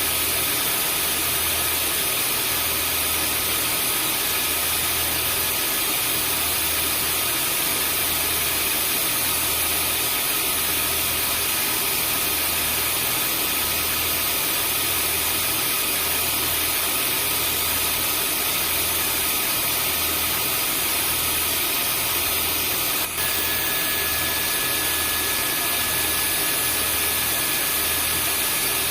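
Vacuum cleaner running steadily: a constant loud whooshing hiss with fixed high whines on top and a low hum underneath that pulses about once a second. About three quarters of the way through, the level dips for an instant and a new steady whine joins in.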